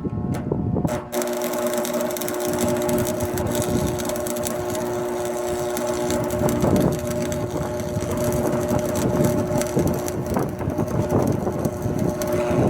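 Electric arc welding on a metal door: the arc strikes about a second in and keeps up a steady crackle over a steady hum.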